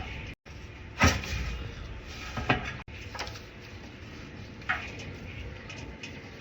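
A few sharp knocks and clunks, as from a generator's metal covers or access doors being shut, the loudest about a second in and another about two and a half seconds in.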